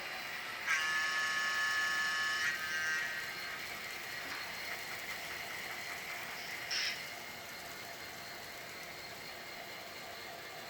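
A train passing with a steady running noise. About a second in, a high-pitched steady squeal sounds for about two seconds and then fades, followed by a brief squeak about seven seconds in.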